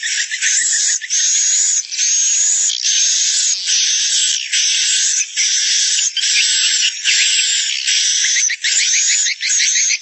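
Swiftlet lure recording: a dense colony of swiftlets twittering and chirping in short runs of about half a second to a second, one after another without a break. The sound is cut off sharply below about 1.5 kHz and above 8 kHz, giving it a thin, filtered tone. It is a roosting call ('suara inap') played in swiftlet houses to get the birds to stay the night.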